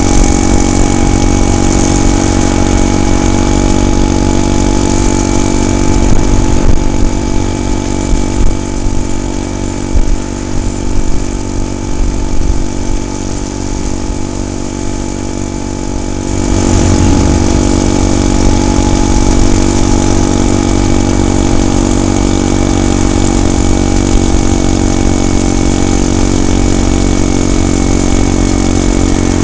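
Small gasoline engine of a motorized bicycle running steadily while riding. It eases off and gets uneven for a stretch in the middle, then picks up again about two-thirds of the way through.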